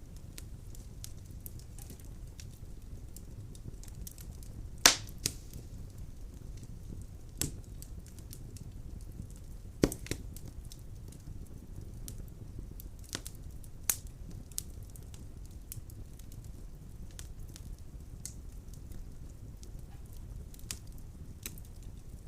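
Firewood burning in a fireplace, crackling with scattered sharp pops over a low steady rumble of flame. The loudest pops come about five and ten seconds in.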